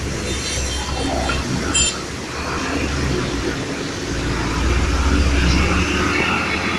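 Heavy vehicle traffic running past on a road under repair: a steady low engine drone that swells about two-thirds of the way through, with a few brief high squeaks in the first two seconds.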